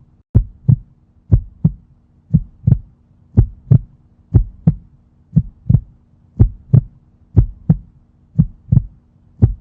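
A heartbeat sound effect: paired low thumps, a double beat about once a second, over a faint steady hum.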